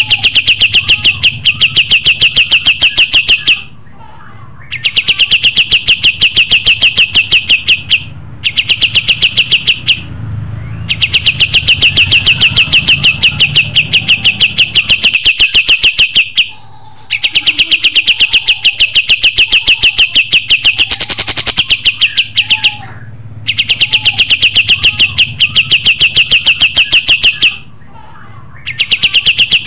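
Kapas tembak songbird singing: fast trills of evenly repeated high notes, each run lasting a few seconds, with short pauses between.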